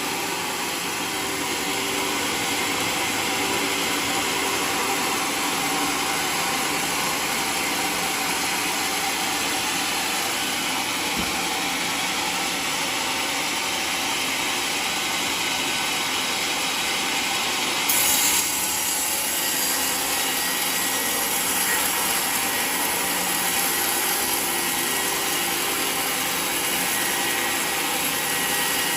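Portable sawmill running steadily while cutting through a mahogany log, its motor and blade making one continuous sawing noise. The sound brightens and briefly gets a little louder about eighteen seconds in.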